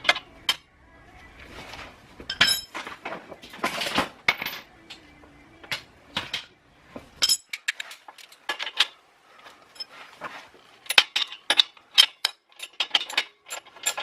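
Irregular metallic clinks and clicks of a hand wrench working the bolts on an aftermarket exhaust pipe joint, with a quicker run of clicks near the end.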